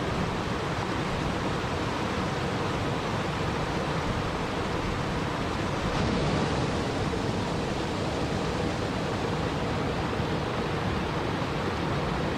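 Steady rushing noise of water, even and unbroken, with a slight shift in tone about six seconds in.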